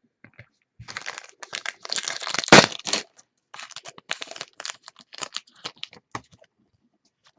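Crackly plastic wrapper of a trading card pack being torn open and crinkled. It is loudest about two and a half seconds in, then thins to scattered crinkles that stop a little after six seconds.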